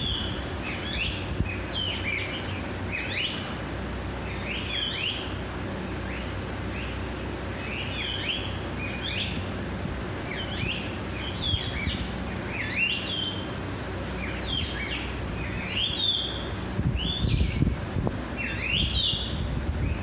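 Birds calling: a busy run of short, clear whistles that sweep upward in pitch, one or two a second, some overlapping, over a low steady rumble.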